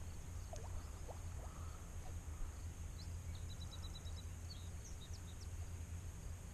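Steady low outdoor background rumble, with faint bird chirps and a short, quick trill of high notes near the middle.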